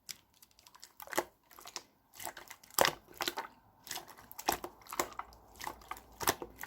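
Clear slime being squeezed and pressed by hand, giving irregular sharp pops and crackles, several a second.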